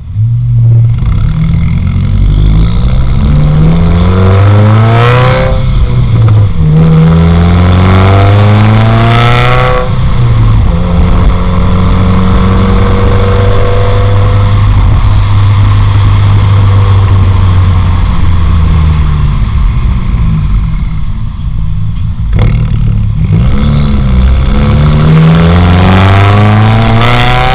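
2015 Subaru WRX's turbocharged 2.0-litre flat-four, heard loud through a 4-inch straight-through axle-back muffler delete, accelerating. Its pitch climbs, drops sharply at each upshift, holds steady for several seconds at cruise, then climbs again.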